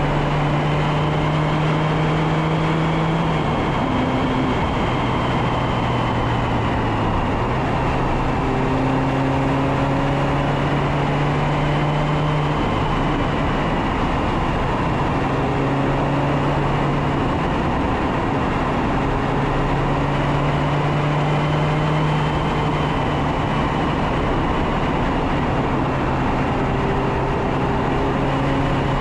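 Mazda MX-5 Miata ND2's inline-four engine pulling and easing off during spirited driving on a mountain road, its note shifting in pitch and dropping away several times as the throttle is lifted or gears change. Heavy wind rush over the bumper-mounted microphone runs under it.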